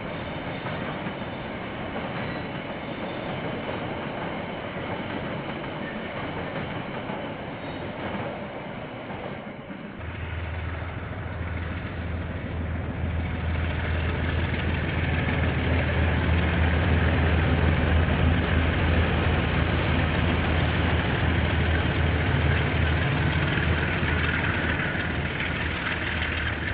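Train passing with a steady rolling rattle. About ten seconds in the sound changes abruptly to a diesel locomotive's engine drone, which grows louder and stays loud as it passes.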